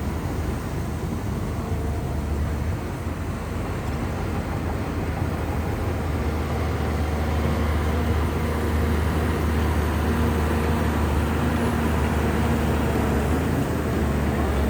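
Shantui bulldozer's diesel engine running steadily, growing a little louder about halfway through.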